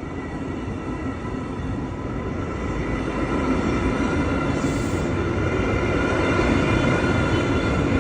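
Train approaching, its rumble growing steadily louder.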